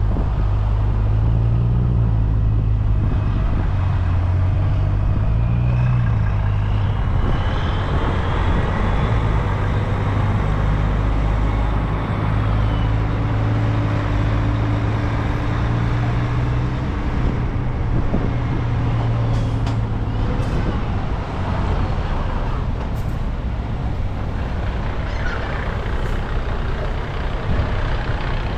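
Heavy truck's diesel engine running close by with a loud, steady low drone, its pitch rising and falling a little in the first few seconds.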